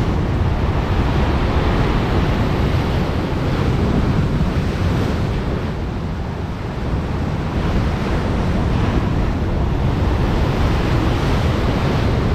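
Stormy sea: waves breaking on the shore in a loud, continuous surge, with wind buffeting the microphone.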